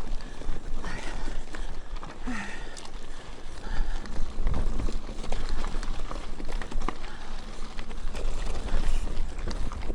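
Mountain bike rolling over a rough, rocky trail: tyres and frame rattling with many small knocks and clicks, and wind rumbling on the microphone.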